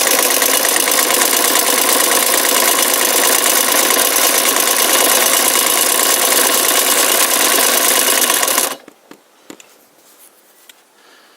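KDAZ 620 transverse vibrating-shuttle sewing machine running fast under its electric motor with a heavy, guttural, rapid mechanical chatter rather than a tinny one. It stops suddenly about nine seconds in, leaving a few faint clicks.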